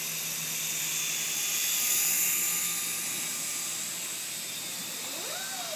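Syma S107G coaxial mini RC helicopter in flight: its small electric motors and counter-rotating rotors make a steady high buzz that swells about two seconds in.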